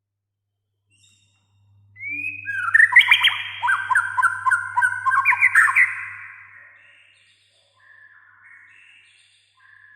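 White-rumped shama (murai batu) singing: a loud burst of rapid, repeated whistled notes mixed with harsh chattering starts about two seconds in, then gives way to softer whistled phrases near the end.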